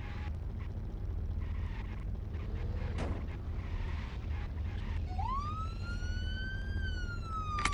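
Low steady vehicle rumble, then about five seconds in a police siren starts up and wails, its pitch rising and then slowly falling.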